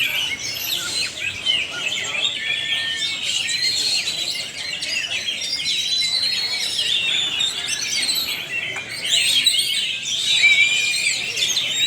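Many caged oriental magpie-robins (kacer) singing at once in a contest, a dense, unbroken tangle of overlapping chirps, whistles and trills, growing louder about nine seconds in.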